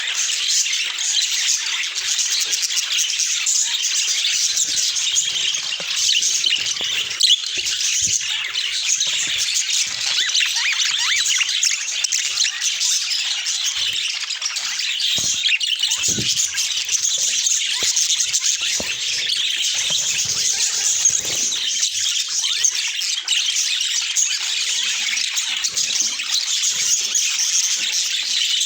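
A group of budgerigars chattering and warbling without a break, a dense mix of chirps and quick squeaky glides.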